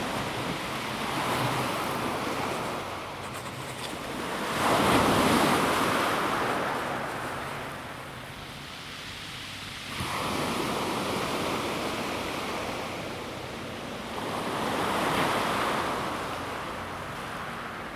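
Calm sea waves washing onto a pebble beach, in about four surges that swell and ebb. The loudest comes about five seconds in, and another washes in abruptly about ten seconds in.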